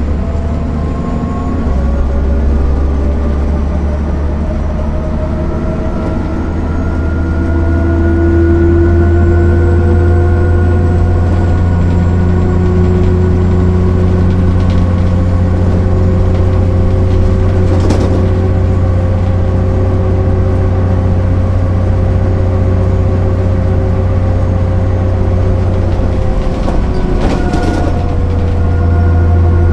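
MAN NL 262 city bus's straight-six diesel engine pulling under load, its pitch rising slowly at first and then holding steady. The pitch shifts near the end.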